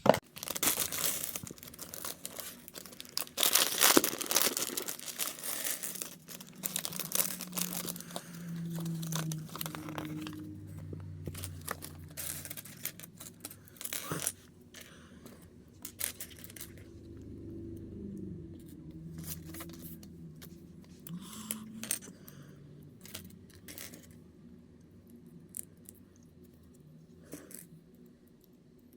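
Toy packaging being torn open and crinkled, with scattered sharp clicks and taps; busiest in the first half, then thinning to occasional taps.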